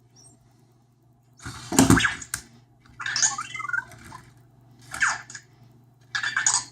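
Anki Vector robot's electronic chirps and warbles mixed with small motor whirs, in four short bursts. The first burst, about one and a half seconds in, is the loudest and includes a thump.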